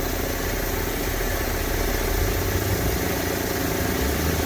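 Diesel truck engine running steadily.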